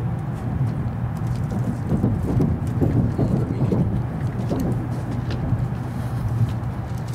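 Steady low rumble of an N700 series Shinkansen running, heard from inside the passenger car.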